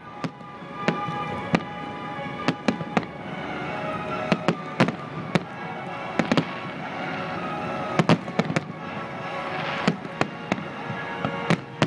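Fireworks display: aerial shells bursting in a quick, irregular series of sharp bangs and pops, with music playing throughout.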